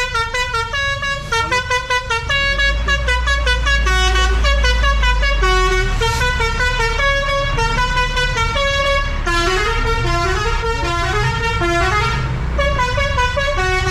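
Indonesian party bus blaring a fast, stepping electronic melody at high volume, with a deep rumble joining in about two seconds in.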